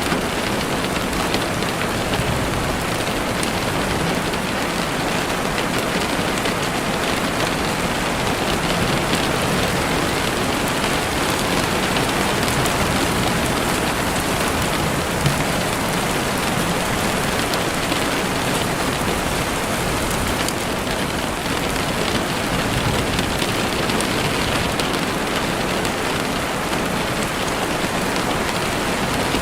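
Steady, even rain falling, with faint scattered pops of a campfire crackling and one sharper pop about halfway through.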